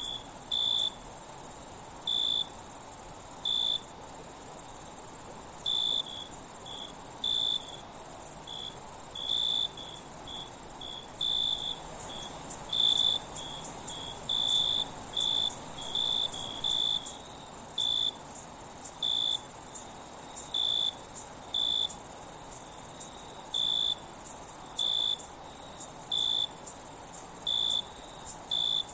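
Night insect chorus of crickets: a steady high-pitched trill of many insects, with short chirps on a lower pitch repeating irregularly about once or twice a second. The sound cuts out for an instant four times.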